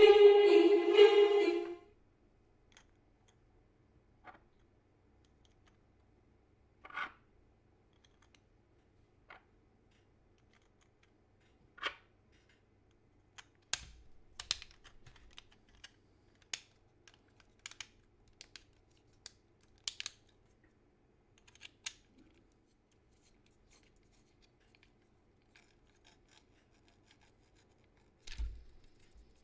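A pitched tone lasting about two seconds at the start, then scattered, irregular light clicks and taps of small 3D-printed PLA parts being handled, busiest in the middle, with a dull knock near the end.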